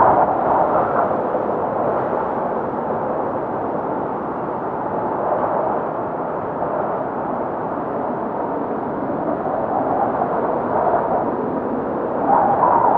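Blizzard wind blowing hard and steadily, easing a little after the first second or two and rising again in a stronger gust about twelve seconds in.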